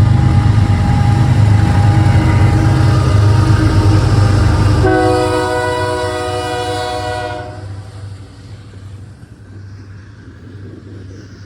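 Norfolk Southern diesel locomotives passing with a loud low engine rumble while the air horn blows. The horn's pitch drops about five seconds in as the locomotives go by, and the horn stops near the end, leaving quieter rolling train noise.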